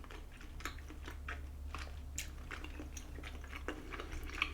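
A person chewing chewy rice cakes (tteokbokki) close to the microphone: soft, irregular wet clicks and smacks of the mouth, several a second.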